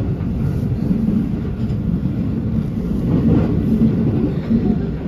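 JR passenger train running at speed, heard from inside the carriage: a steady low rumble of wheels on the track.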